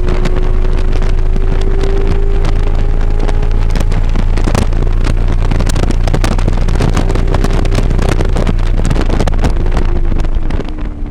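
A vehicle engine pulling hard, its note climbing slowly under heavy wind buffeting on the microphone. Near the end the level drops and the engine note falls as the throttle comes off.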